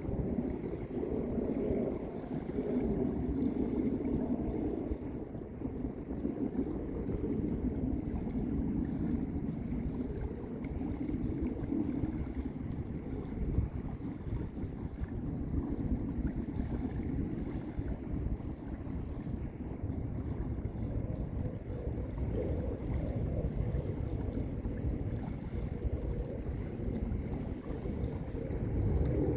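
Small lake waves rolling in and washing onto a beach: a steady low wash that swells and eases every few seconds.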